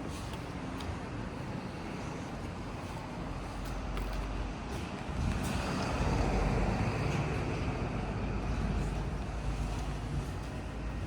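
Steady motor-vehicle rumble, swelling louder about five seconds in.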